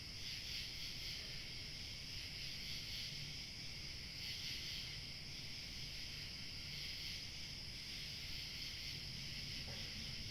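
Chorus of crickets chirping steadily over a low hush of light wind.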